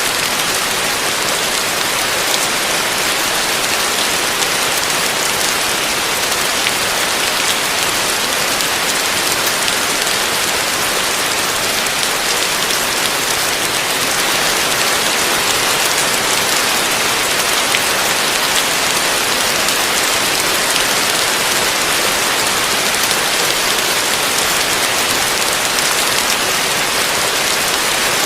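Heavy rain falling steadily: a dense, even hiss with many fine drop ticks and no thunder.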